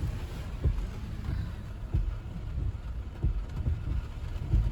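Low road rumble inside a car's cabin while driving on wet city streets, with a few short, soft low thumps.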